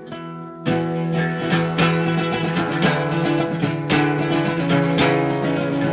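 Acoustic guitar playing an instrumental intro: softer picking at first, then strummed chords that come in louder about a second in and ring on with a regular strum.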